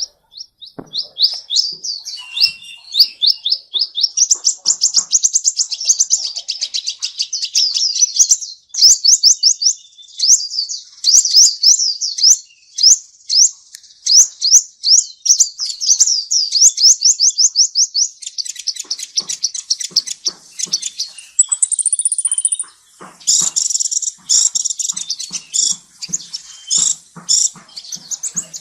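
A songbird singing a long, fast run of high sweeping notes, several a second. After a short break past the middle, the song turns more varied, with a brief high whistle.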